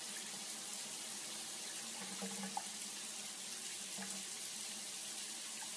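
Steady rush of running water, like a tap running, starting abruptly and holding even throughout.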